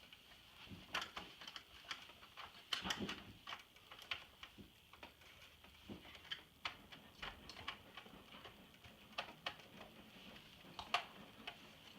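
Scattered small clicks and taps from hands and tools working on an iMac G3's plastic housing and its screws during disassembly, with a cluster about three seconds in and a sharper click near the end.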